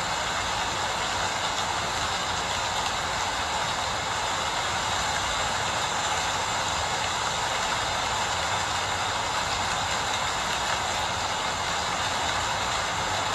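Steady rain falling: an even, unbroken hiss with a faint low rumble beneath.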